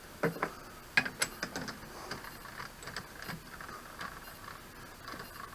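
Metal parts being handled at a lathe: a few sharp clicks and knocks near the start and about a second in, then lighter clicking and rattling as a steel plate is brought to the chuck.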